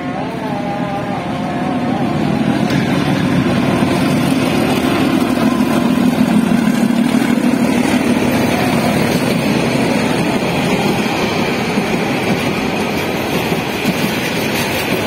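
An old diesel locomotive hauling a passenger train past at close range. Its engine drone builds and is loudest about five to seven seconds in as the locomotive goes by. It then gives way to the steady rolling rumble and rattle of the coaches, with a higher-pitched rolling hiss from the wheels on the rails.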